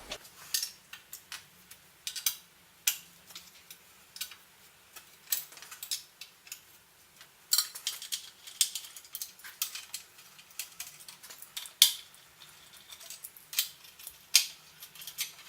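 Irregular light metallic clicks and clinks as parts of a sheet-metal bending machine are taken off and adjusted by hand, with one sharper knock about twelve seconds in.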